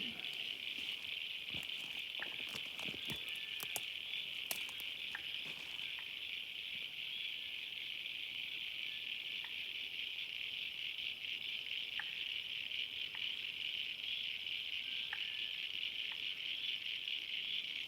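A steady, unbroken high-pitched chorus of insects, with scattered faint ticks and taps through it.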